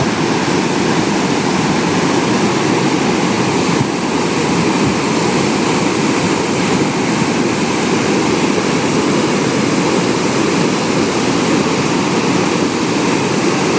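Floodwater rushing in a swollen hill river: a loud, steady rush of water with no breaks.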